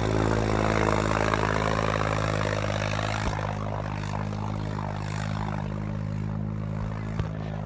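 John Deere 5310 tractor's three-cylinder diesel engine running steadily, louder for the first three seconds and then easing a little.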